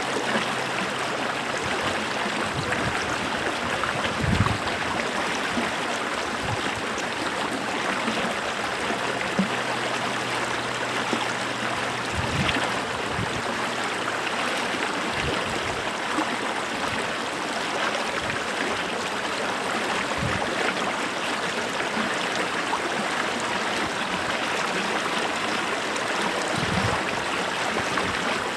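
A stream running over rocks: steady rushing and babbling water, with a few brief low gurgles or splashes scattered through it.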